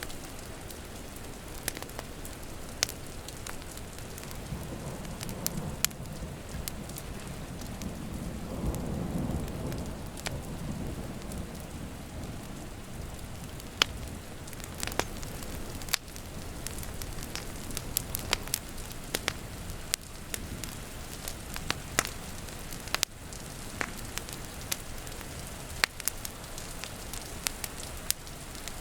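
Wood fire crackling with sharp pops over steady falling rain, and a low roll of thunder that swells and fades about five to eleven seconds in.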